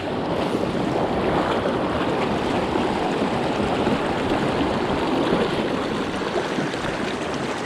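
Steady rushing of a small mountain creek's water over rocks, with some wind on the microphone.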